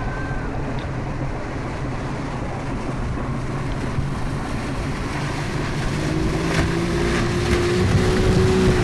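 Outboard motor of a small RIB boat running under way, with continuous water and wind noise; the engine note rises slightly in the last few seconds.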